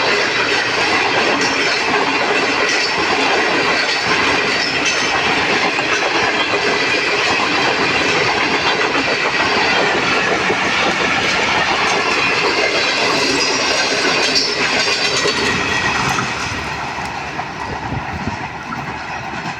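Express passenger train rolling past at speed, its wheels clattering over rail joints with a steady rush of noise. The sound drops off about three-quarters of the way through.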